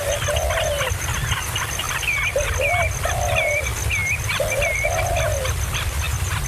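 Birds calling: many short, high chirps, and a lower two-part call that repeats about every two seconds, over a steady low rumble.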